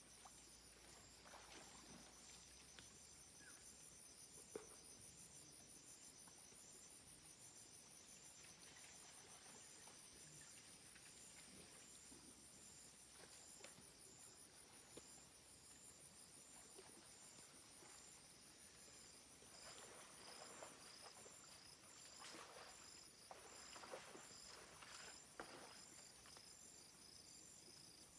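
Faint insect chorus: a steady, evenly pulsing high trill. Scattered faint cracks and rustles come in here and there, more of them near the end.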